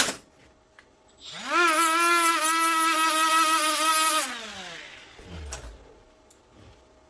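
90-degree Milwaukee die grinder fitted with a Tiger disc, spinning up with a rising whine about a second in, running at steady speed for under three seconds, then winding down. A sharp click comes right at the start.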